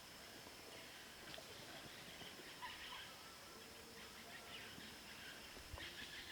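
Faint outdoor ambience: small birds chirping on and off over a steady thin high tone, with a few faint clicks.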